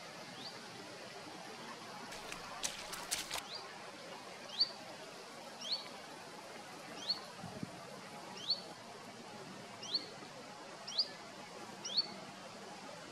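A bird calling in a series of short, high, upward-sliding whistled notes, about one every second and a bit, over a steady background hiss. A few sharp clicks come between about two and three and a half seconds in.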